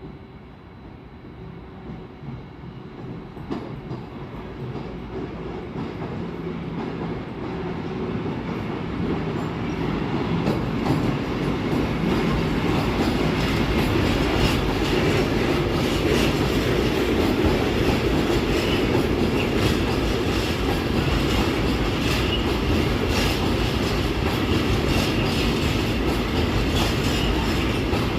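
A train approaching and running past close by. It grows louder over the first ten seconds or so, then holds a steady loud rumble with quick clicks of the wheels over the rail joints.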